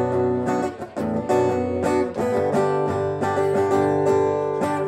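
Acoustic guitar strummed in a steady rhythm: an instrumental break between the sung verses.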